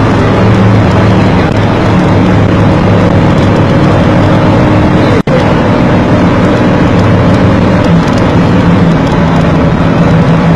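Loud, steady car engine and road noise picked up by a dash cam while driving, broken by a brief cut about halfway through.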